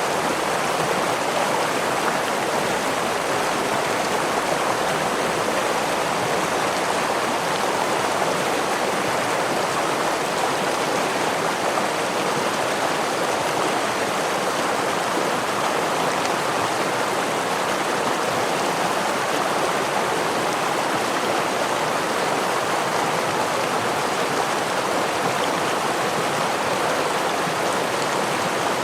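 Steady rushing and splashing of a stream or small waterfall, a constant even wash of water noise with no breaks.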